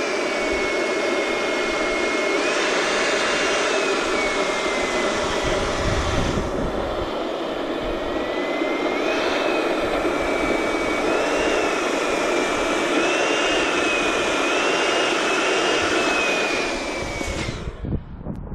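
Electric balloon inflator running steadily as it fills a latex balloon, its whine wavering up and down in pitch, then cutting off near the end.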